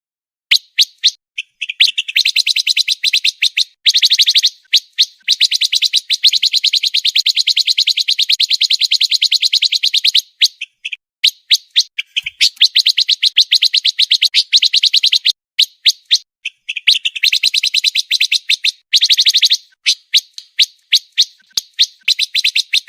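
Pancawarna songbird singing a fast, tightly packed song: long runs of rapid, high-pitched rattling notes, several seconds each, broken by short pauses.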